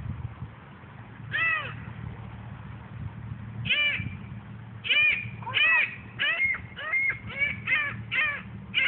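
Seagull calling: a single yelping call, another a couple of seconds later, then a quick run of about eight calls in a row, each call rising and falling in pitch.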